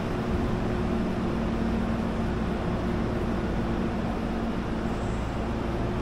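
A Hankyu electric train's steady hum and rumble, with two low tones held without change.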